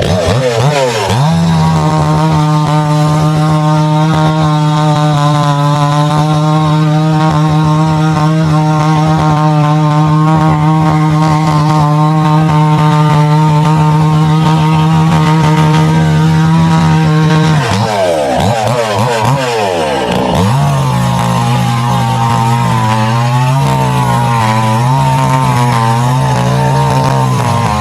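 Two-stroke chainsaw bucking a dead pine log into sections. It holds a steady full-throttle note for most of the cut, then falls and climbs back about two-thirds of the way through, and runs on at a lower, wavering pitch.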